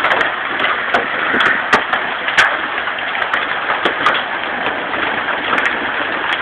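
Heavy hailstorm of large hailstones: a loud, steady rush of hail coming down, with sharp cracks of single stones striking hard surfaces every second or so.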